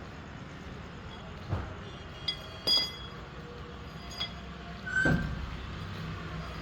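Five irregular metallic clinks and knocks, some ringing briefly, over a steady low hum.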